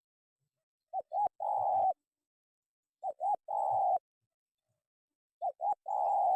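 Spotted dove cooing: three calls about two seconds apart, each two short coos followed by a longer, rolling coo. The last call is cut off at the end.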